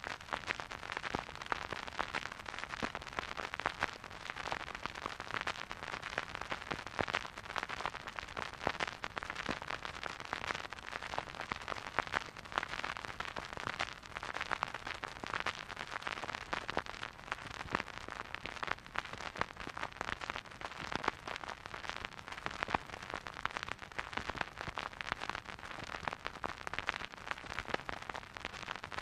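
Vinyl record surface noise from a turntable's needle riding the spinning record: a steady soft hiss thick with small crackles and pops.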